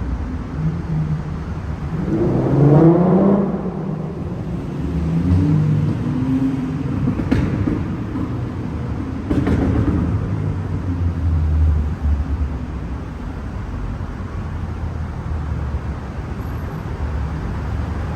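Car engines revving in a tunnel, their pitch climbing sharply a few times over a steady low rumble, with two sharp exhaust pops near the middle.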